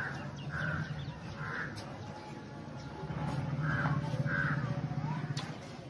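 Bird calls: five short, rough calls in two groups, three and then two, over a low steady hum that grows louder in the middle. A single sharp click comes near the end.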